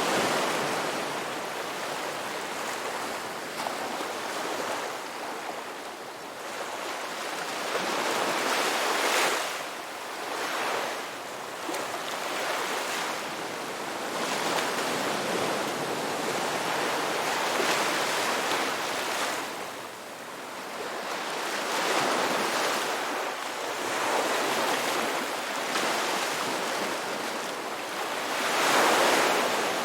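Ocean waves breaking and washing ashore in a continuous hiss that swells with a louder surge every few seconds, the biggest near the end.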